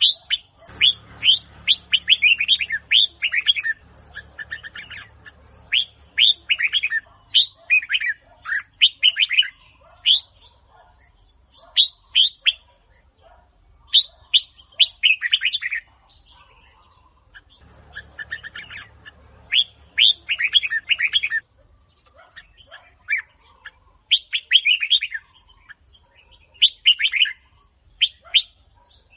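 Red-whiskered bulbul (Huế-type chào mào) singing: short phrases of quick, clear notes that sweep downward, repeated with brief pauses between phrases.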